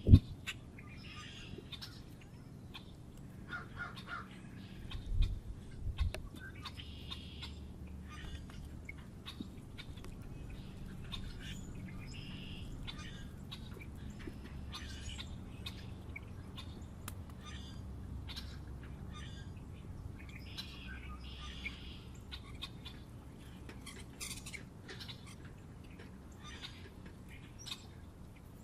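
Wild birds at a feeder chirping and calling in short, scattered notes. A single sharp knock comes right at the start, and two low thuds come about five and six seconds in.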